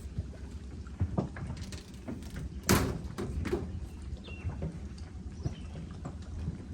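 Scattered knocks and clunks, the loudest about two and a half seconds in, over a steady low rumble.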